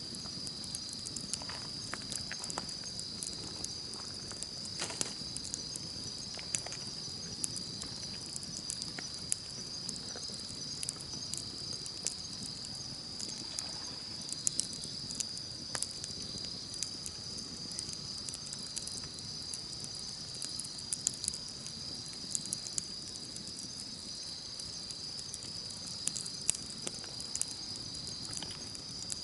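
Campfire crackling, with irregular sharp pops and snaps, over a steady high-pitched chorus of insects chirping.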